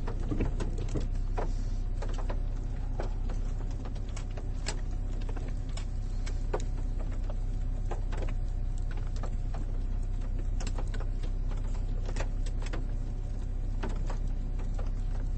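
Car engine running, heard from inside the cabin as a steady low hum, with scattered irregular clicks and knocks.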